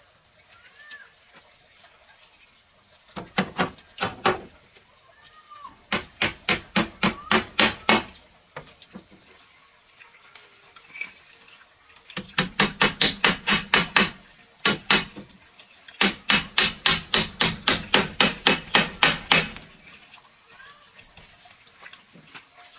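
Hammer striking wood in four quick runs of blows, about four or five a second, with short pauses between the runs.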